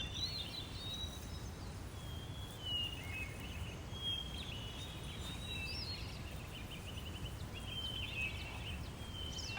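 Outdoor ambience: small birds chirping and warbling in short phrases over a steady low rumble.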